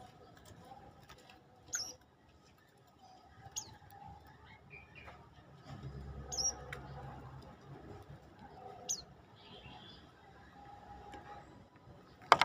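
Prenjak lumut giving short, sharp, high chirps, one about every two and a half seconds, four in all. A single sharp click near the end is the loudest sound.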